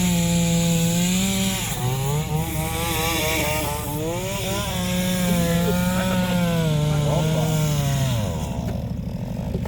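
Chainsaw running at high revs while cutting wood, its pitch sagging and recovering as the chain bites, then falling away about eight seconds in.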